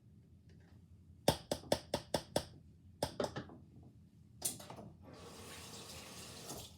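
A kitchen utensil knocking sharply against a container, six times in quick succession and then a few more, as the last bit of an ingredient is knocked out. From about five seconds in, a steady scraping rub follows.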